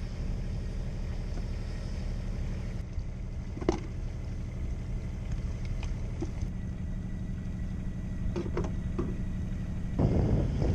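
Boat engine running steadily at a constant speed, with a few light knocks. Near the end a louder rushing noise comes in.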